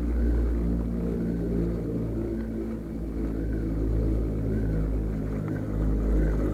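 An engine running steadily at constant speed, with a faint sound rising and falling about once a second above it.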